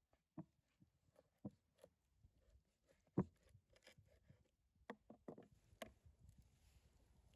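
Faint, scattered clicks and knocks over near silence, the sharpest about three seconds in and a cluster of several more around five to six seconds in.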